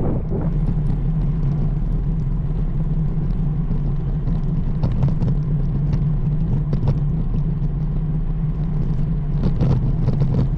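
Steady low rumble of wind buffeting the microphone and road noise while riding a road bike, with a few light clicks and rattles.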